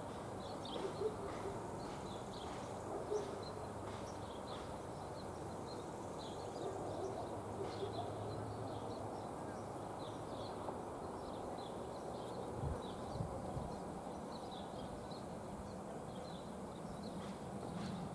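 Birds chirping over and over, short high calls over a steady low background rumble.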